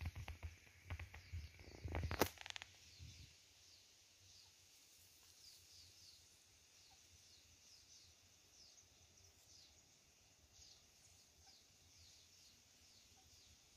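Faint outdoor ambience with a small bird giving short, high chirps that fall in pitch, about two a second. A few louder brief noises come in the first three seconds.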